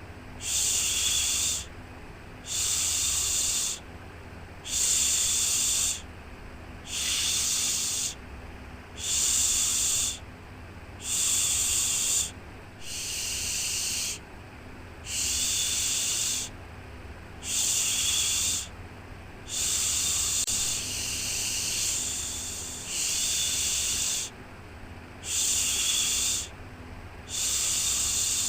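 Rhythmic shushing, a soft "shhh" repeated about every two seconds, each lasting a second or so, over a steady low hum; the calming shush used to settle a baby to sleep.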